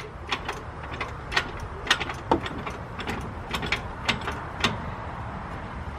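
Irregular sharp metallic clicks and clinks, some ringing briefly, of hand tools working on truck brake parts.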